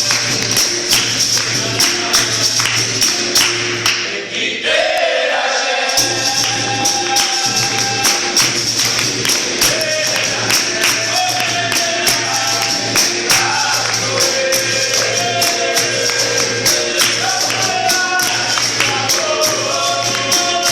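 Capoeira music: a pandeiro tambourine keeps a steady, rhythmic beat over a steady low drone, and group singing comes in about four or five seconds in.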